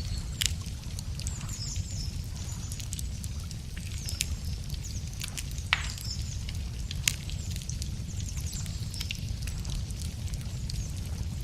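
Wood campfire crackling, with irregular sharp pops (the loudest about half a second in, near the middle, and a second or so later) over a steady low rumble of the burning fire. Birds chirp in short high phrases throughout.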